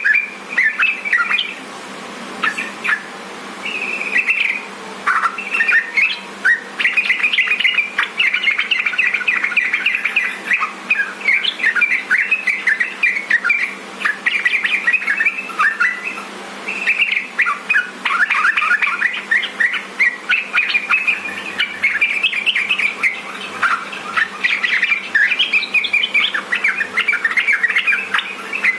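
Yellow-vented bulbuls (trucukan) singing: rapid chirping phrases run almost without a break, the kind of lively bulbul song used as a tutor and lure to get caged bulbuls singing.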